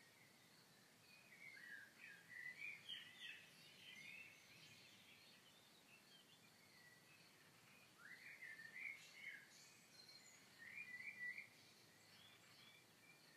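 Faint songbird twittering and warbling over a soft outdoor hiss, in three short bouts: a couple of seconds in, again about eight seconds in, and briefly near eleven seconds.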